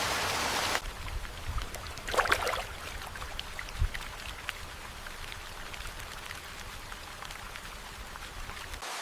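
Steady rain hiss that cuts off abruptly under a second in, giving way to quieter scattered raindrops and drips. A short louder noise comes about two seconds in and a soft low thump near four seconds.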